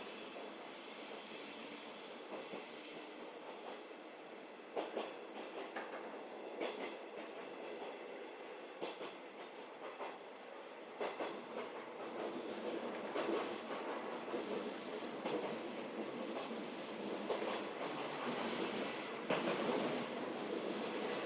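711 series electric train running, heard from inside the car: steady running noise with wheels clacking over rail joints every second or two, growing louder in the second half.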